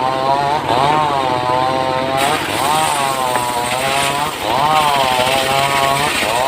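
Engine-powered wood saw running loud and continuous, its pitch rising and sagging in a regular cycle about every two seconds as it loads into the cut and frees again.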